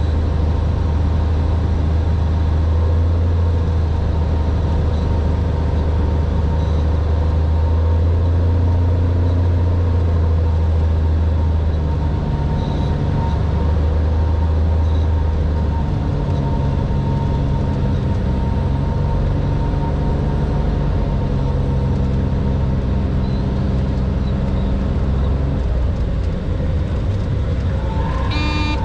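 Cessna 182R's six-cylinder Continental O-470 engine and propeller running steadily. The engine note drops and shifts about twelve seconds in and again a few seconds later, a power change.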